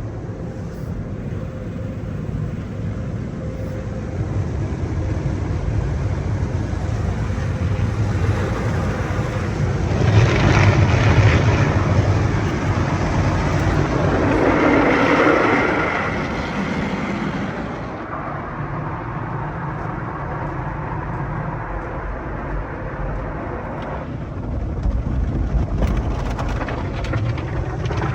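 Belanger automatic car wash tunnel equipment running, with a steady low rumble and a louder stretch of rushing, spraying noise from about ten to sixteen seconds in.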